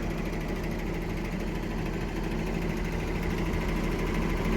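Diesel engine of an old John Deere motor grader running steadily at an even pitch.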